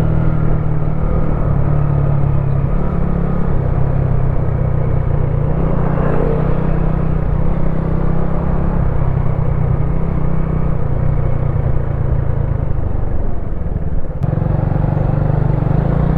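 Wolf Classic 125cc single-cylinder motorcycle engine running at a steady speed under way. About 14 seconds in there is a short break with a click, like a gear change, and then the engine note climbs as it accelerates near the end.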